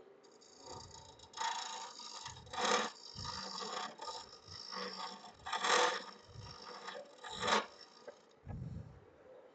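Carbide cup cutter of a Hunter hollowing tool cutting inside a spinning wooden vase on a wood lathe: a series of scraping bursts as the cutter takes shavings, with short pauses between them.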